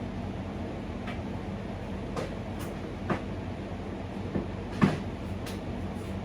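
A handful of scattered knocks and clicks, the loudest about five seconds in, over a steady mechanical hum.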